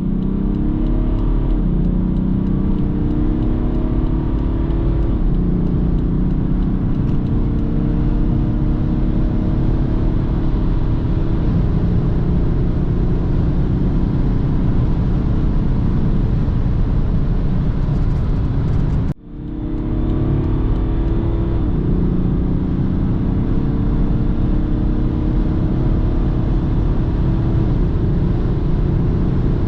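BMW 330d's 3.0-litre inline-six diesel engine pulling hard at high speed, its note climbing slowly as the car accelerates, over steady road rumble. The sound breaks off briefly about two thirds of the way through, then the engine note climbs again.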